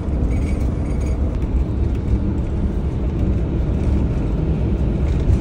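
Steady engine and road rumble inside a camper van's cabin while driving.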